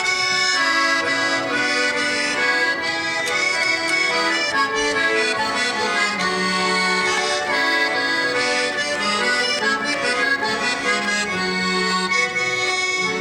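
Accordion playing the instrumental introduction to a Russian folk song, with steady chords and a melody line.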